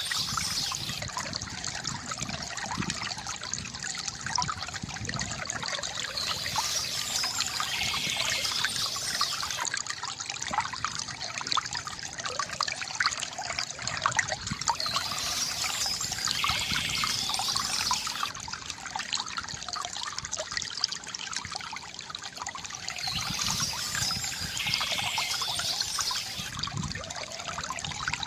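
Water trickling and gurgling from a bamboo fountain, steady throughout, with a brief high bird call returning about every eight seconds.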